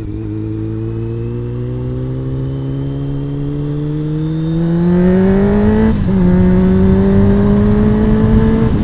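Honda CBR600 inline-four engine under acceleration. The revs climb steadily, drop sharply about six seconds in at an upshift, then climb again.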